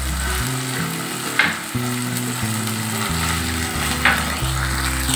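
Spring onions, green chilies and ginger-garlic paste sizzling in hot oil in a nonstick frying pan, stirred with a silicone spatula. Two brief louder scrapes come about a second and a half in and again near four seconds.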